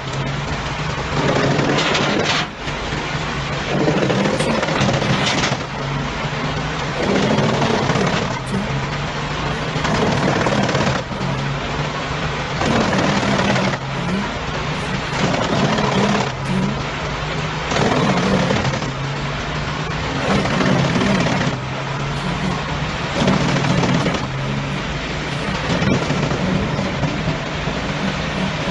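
Heavy machinery running steadily, with louder swells about every two seconds, mixed with background music.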